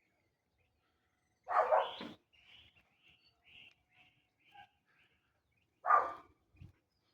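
Two loud, short animal calls about four seconds apart, with a run of faint short chirps between them.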